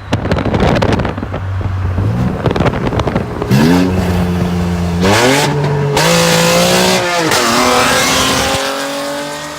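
Chevrolet Camaro V6 engine and exhaust with the revs climbing in several steps, holding steady between climbs. About seven seconds in the pitch dips, then rises slowly again.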